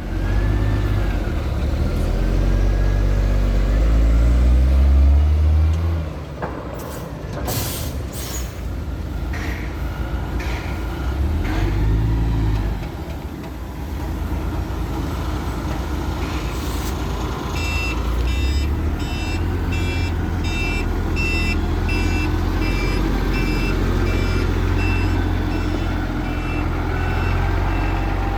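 Sany concrete mixer truck's diesel engine pulling away and rising in pitch through the gears, with sharp air-brake hisses as it stops. In the second half a reversing alarm beeps at an even pace over the running engine.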